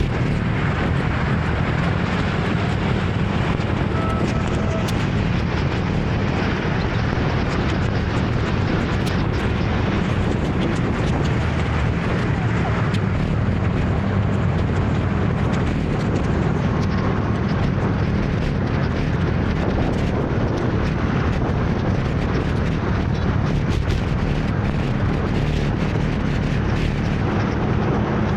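Steady rush of wind and road noise while riding a motor scooter through city traffic, with the scooter's engine running underneath as a low, unbroken drone.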